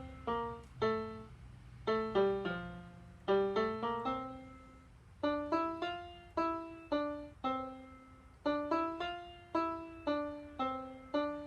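Piano playing a simple melody, one note at a time at about two or three notes a second, each note ringing and fading, with short breaks between phrases. A faint low hum runs underneath.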